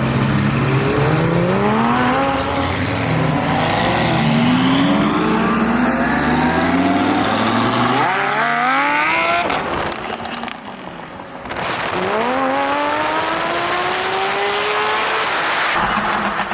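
High-performance car engine accelerating hard, its pitch climbing and falling back with each upshift through several gears. After a short lull about ten seconds in, there is another hard pull with the engine note climbing again.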